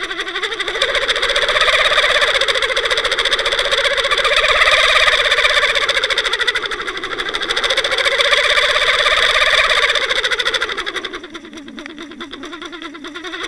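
Motor of the towing watercraft heard underwater through the trolled camera's housing: a muffled, steady mechanical whine that slowly rises and falls in pitch, then drops lower and quieter about eleven seconds in as the motor eases off.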